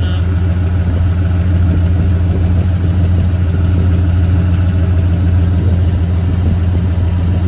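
1997 Ford F350 dump truck's 460 big-block V8 gasoline engine idling steadily.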